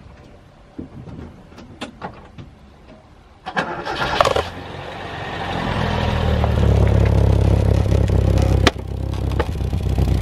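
Toyota Corolla engine cranked and started about three and a half seconds in, then running with a loud, low, steady exhaust rumble that builds up, blowing out through a plastic bottle with holes cut in it, fitted over the tailpipe as a makeshift exhaust. A few light knocks before it starts and a sharp click near the end.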